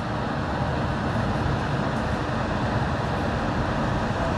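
Yurikamome rubber-tyred automated train running, heard as a steady rumble and road-like noise with a faint whine.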